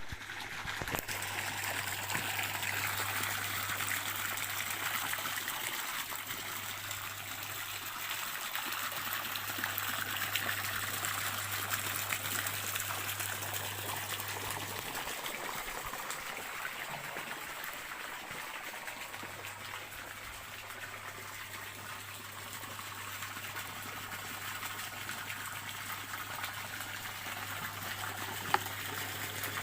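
Stream water flowing and trickling steadily, with a low hum underneath that drops out for a few seconds midway, and a single sharp click near the end.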